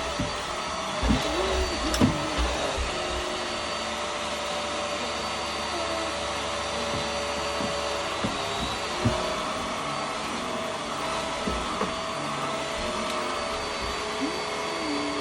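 Vax Airmax Stretch vacuum cleaner running steadily while in use, its motor and suction making a constant hiss. There are a few short knocks as it is moved about.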